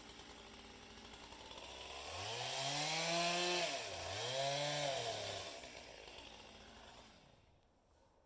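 Stihl MS 200T two-stroke top-handle chainsaw revving up twice, its pitch climbing and then sagging in each rise, before the engine dies away near the end.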